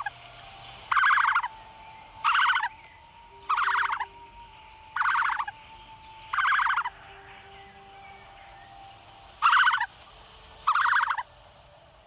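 A bird giving short, harsh rattling calls about seven times, roughly one every second and a quarter, with a longer pause in the middle.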